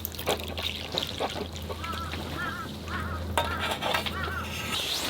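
A bird giving a run of short, arched calls, about seven in three seconds, over a low steady hum.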